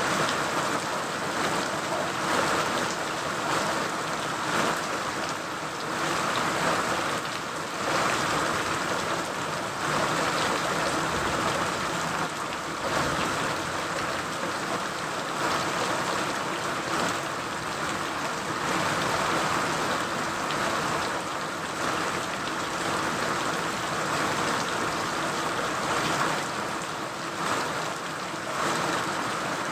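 Steady rain falling: an even, continuous hiss that swells and eases slightly every few seconds.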